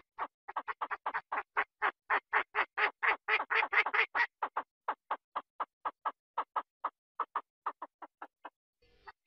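A rapid, evenly spaced series of short animal calls, about four to five a second, growing louder towards the middle and then easing off, with a short pause near the end.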